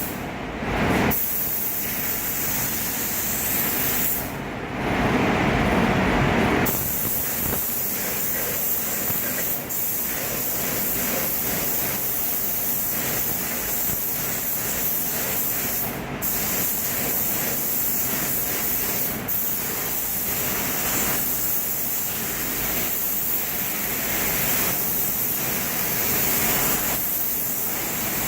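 Paint spray gun hissing as clear coat is sprayed, with the hiss breaking off briefly a few times as the trigger is released. It runs over the steady rush of the paint booth's exhaust fan.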